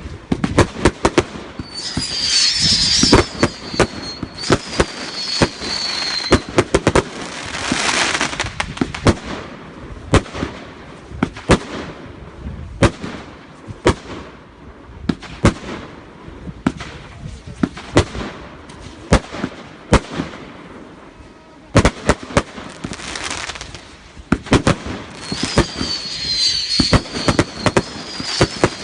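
Consumer fireworks going off in a barrage: a steady run of sharp bangs and crackling, with two spells of high shrieking whistles, one a couple of seconds in and one near the end, each easing slightly down in pitch.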